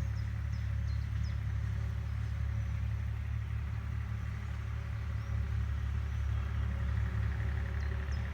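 Agricultural machine's engine running steadily, a deep low rumble that holds an even level throughout, with short high chirps near the start and again near the end.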